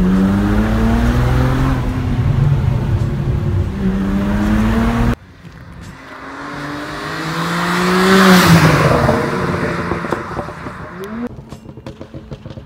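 Tuned BMW 335i's twin-turbo N54 inline-six accelerating hard, heard from inside the cabin, its note rising twice with a drop back between. After a sudden cut about five seconds in, the car is heard from the roadside approaching and passing at speed, loudest about eight seconds in, then fading away.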